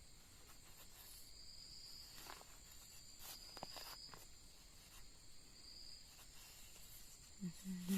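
Faint insects buzzing outdoors: a steady high-pitched drone that breaks off and starts again several times, with a few faint scattered clicks. A brief voice comes in near the end.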